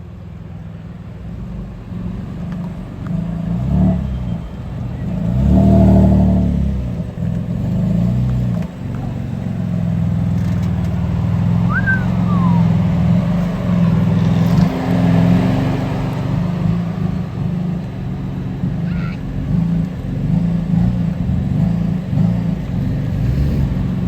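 Car engines running with a deep exhaust rumble as cars move through the lot at low speed. One engine rises to its loudest about six seconds in.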